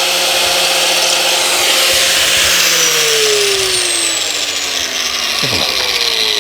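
Angle grinder fitted with a cutting disc, cutting into an old suspension bush: a continuous harsh grinding hiss, with the motor's whine dropping in pitch twice.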